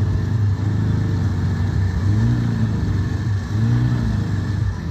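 Off-road vehicle engine revving up and down in repeated surges, its pitch rising and falling about every second and a half.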